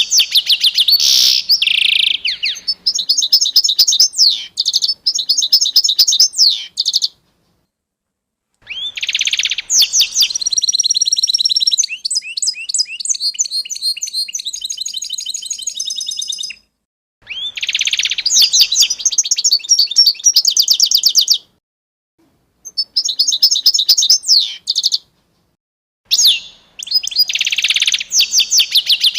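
A songbird singing long phrases of rapid trills and repeated high notes, broken four times by brief gaps of silence.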